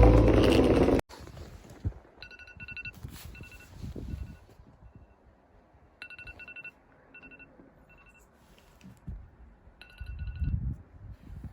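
A phone ringing with an electronic ringtone: a short burst of rapid beeps about every four seconds, with softer single beeps between the bursts.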